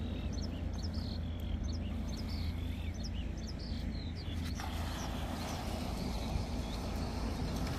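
Small birds chirping in short, quick repeated calls over a low steady rumble. About four and a half seconds in, the chirping stops and a steady hiss takes over.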